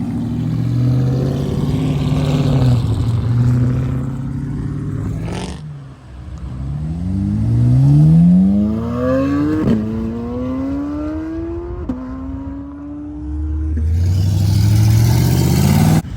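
Performance car engine and exhaust under hard acceleration, the pitch rising steeply through the gears with two quick upshifts in the second half. Earlier it runs at a lower, shifting note, broken by a single sharp crack.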